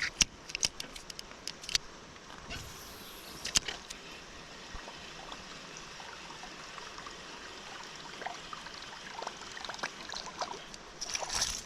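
River water flowing and trickling, with scattered light clicks and knocks. The clicks grow busier near the end.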